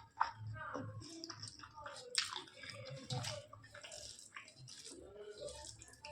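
Close-up wet eating sounds of rice with vegetable curry and chicken curry: irregular chewing, lip smacks and squelching clicks.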